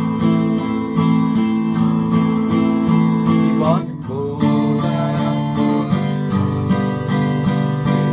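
Acoustic guitar strummed in a 3/4 waltz rhythm. Each bar is a low bass stroke on the sixth to fourth strings followed by quick down strokes on the top four strings, as the chords change. There is a brief break with a sliding sound about four seconds in.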